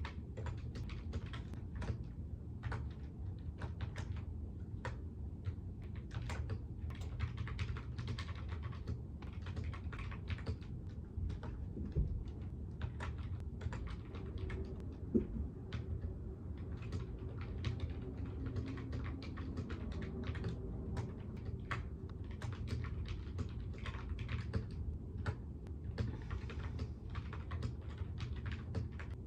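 Typing on a computer keyboard: a continuous run of quick keystrokes with brief pauses, over a constant low hum.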